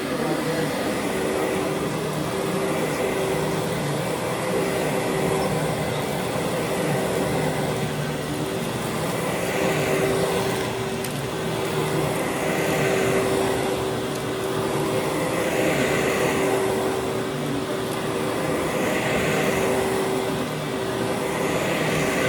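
Vacuum cleaner running steadily over a heavily soiled carpet, a hum under a rushing hiss. From about ten seconds in, the hiss swells and fades roughly every three seconds as it is pushed back and forth in strokes.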